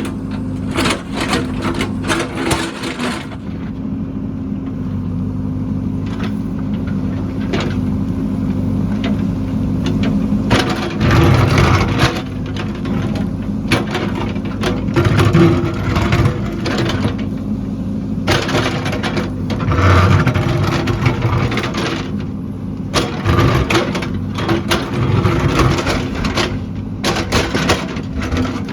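Heavy construction machine's engine running steadily, with frequent sharp clanks and knocks of metal working over it and several louder surges.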